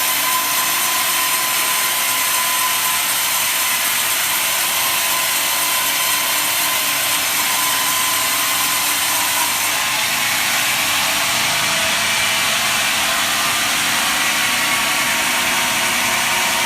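Horizontal log band saw running with a steady hiss and a thin whine; the sound shifts slightly about ten seconds in.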